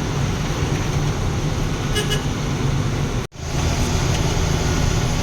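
Truck engine and road noise heard inside the moving cab, a steady low rumble, with two short horn toots about two seconds in. The sound cuts out for an instant a little past halfway.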